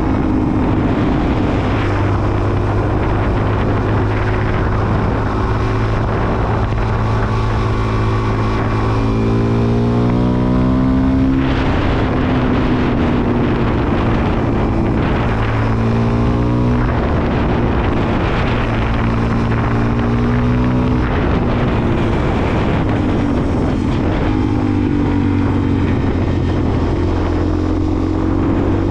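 Suzuki DR-Z400SM's single-cylinder four-stroke engine running under way on the road, its pitch rising twice as it revs up through the gears, about a third and a half of the way in, and holding steadier between.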